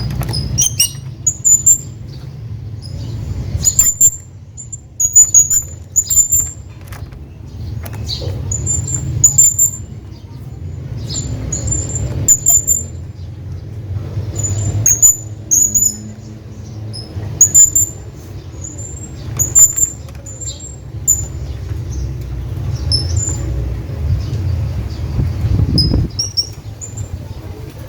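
Hanging parrot giving short, very high-pitched calls, often two or three in quick succession, repeated every second or two over a low steady rumble.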